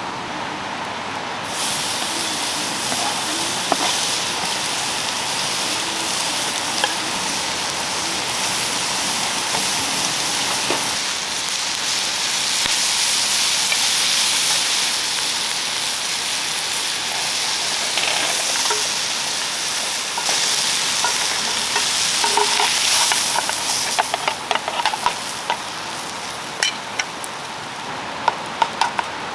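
Meat sizzling and frying in a hot pan. The sizzle starts abruptly about a second and a half in and dies down late, leaving a run of short sharp clicks like utensils tapping the pan.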